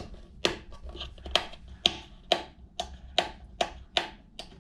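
Plastic Wiremold raceway cover being snapped onto its base: about ten sharp clicks, roughly two a second, as it seats along the channel.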